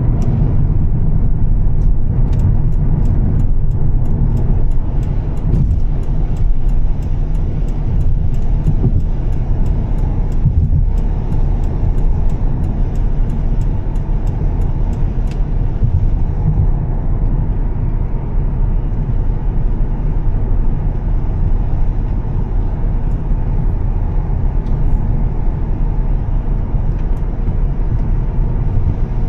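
Volvo S60 T6's turbocharged straight-six and tyres running steadily on the road, a continuous low rumble. Over the first half, frequent sharp little ticks sound over it, then stop about halfway through.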